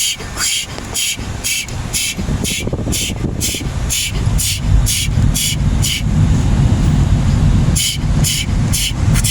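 Car wash drying blowers heard from inside the car: a low rushing rumble that grows stronger about halfway through. Over it is a rhythmic hissing pulse of about two a second, which pauses briefly near the end.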